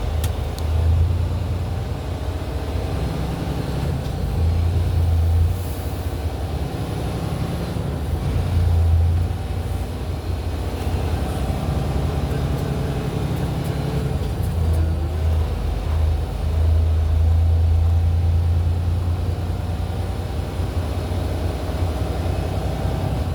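Semi-truck's diesel engine running at low speed during slow maneuvering, its low drone swelling several times as the throttle is applied and eased off.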